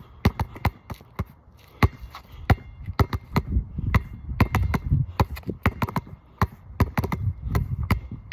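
Basketball dribbled fast on a wet court: a quick, uneven run of sharp bounces, about three or four a second.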